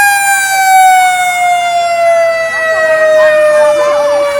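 Fire-engine siren holding a long wail that slowly falls in pitch. A second, warbling siren tone comes in faintly near the end.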